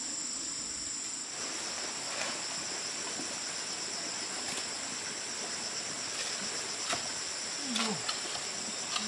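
Steady, high-pitched chorus of insects such as crickets, with a few scattered short knocks.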